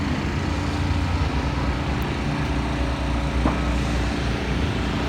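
Steady low rumble of machinery running, with a constant hum over it and a faint knock or two.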